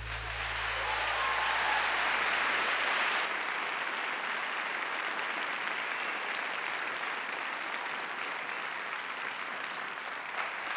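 Audience applauding and cheering at the end of a tap dance performance, swelling in the first couple of seconds and then holding steady.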